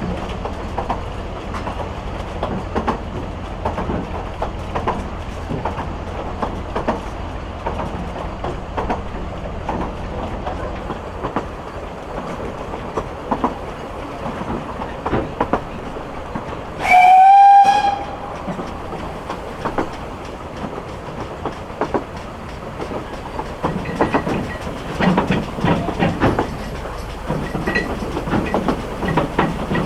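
Narrow-gauge steam train under way, a steady rumble with irregular clicking from the track. A little past halfway the steam locomotive's whistle gives one loud blast about a second long.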